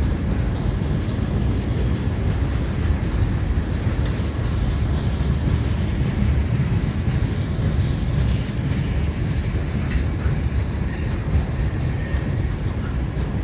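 Florida East Coast Railway freight train rolling past at slow speed: a steady rumble of steel wheels on rail, with a few short sharp clicks from the cars.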